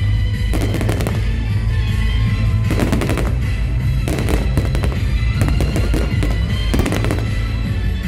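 Aerial fireworks bursting in repeated clusters of sharp bangs and crackles, over music with a steady heavy bass.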